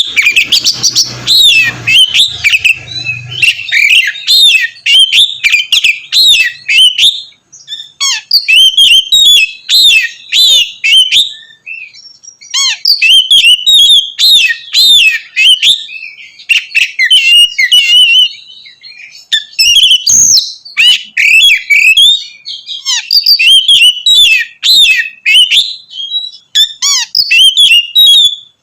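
Oriental magpie-robin (kacer) in full song: loud, fast runs of varied whistles and chirps with mimicked fills, broken by a few short pauses.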